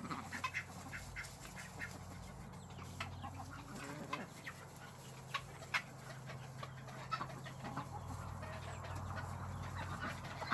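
Backyard chickens clucking softly and scattered, many short clucks while the flock feeds.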